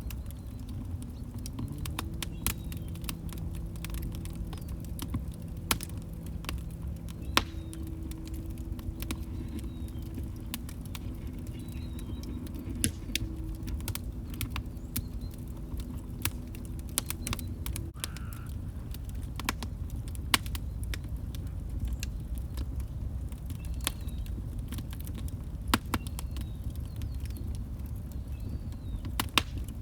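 Wood log fire burning in a fireplace: a low steady rumble of flames with frequent sharp, irregular crackles and a few louder pops. A faint steady low tone runs under it for the first half and stops about eighteen seconds in.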